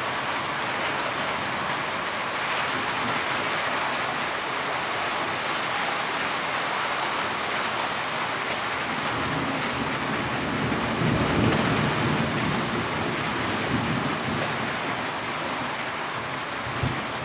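Heavy rain falling steadily, a dense even hiss of drops on surfaces. In the middle a low rumble swells and fades.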